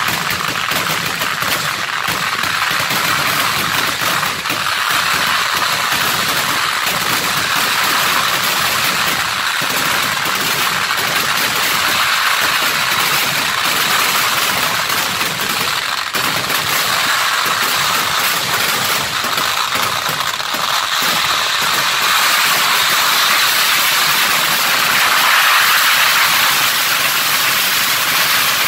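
Dense, continuous fireworks barrage of firecrackers and shells going off so rapidly that the bangs run together into one unbroken, steady noise.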